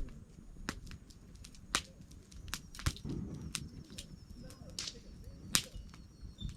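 Wood campfire crackling: a low steady rush of flame with irregular sharp pops and snaps of burning wood, about one a second, the loudest near the end.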